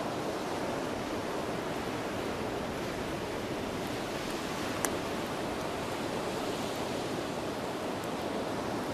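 A beach bonfire burning, with one sharp crackling pop about halfway through, over a steady rushing noise of surf.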